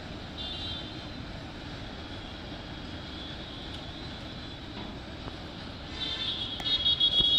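Steady low rumble of a freight train of tank wagons rolling away into the distance. About six seconds in, a louder high-pitched shrill sound comes in and lasts to the end; a fainter, shorter one comes about half a second in.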